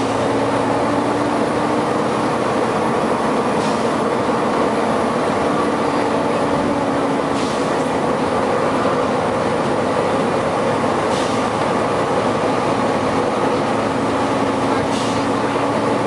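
Volvo B9TL bus's very loud cooling fan running steadily along with the engine, a held droning tone through it. Four short hisses cut in, evenly spaced about every four seconds.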